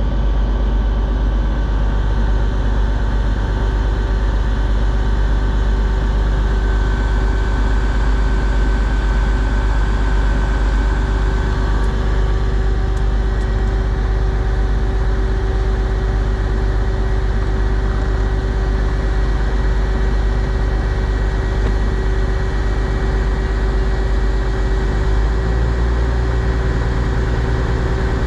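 Class 222 Meridian diesel multiple unit's underfloor engines idling at the platform: a steady, loud hum with a constant low tone.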